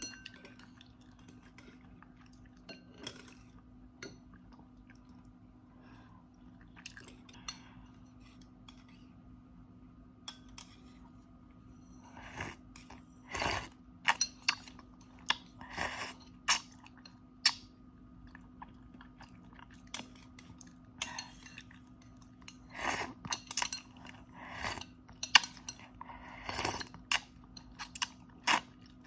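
Close-up eating sounds: chewing, with sharp clicks of utensils against a bowl, sparse at first and coming thick and fast about halfway through. A faint steady hum runs underneath.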